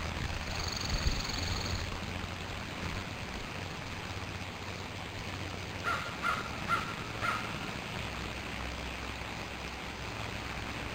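Steady outdoor hiss with a low rumble, over which a bird gives four short, evenly spaced calls about six seconds in. A faint, thin high tone sounds briefly near the start.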